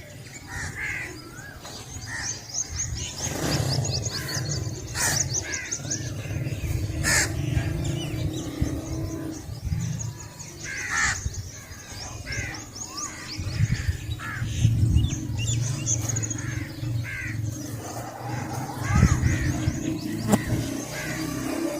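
Dawn chorus: crows cawing and small birds chirping, with a high rapid trill over a steady low rumble.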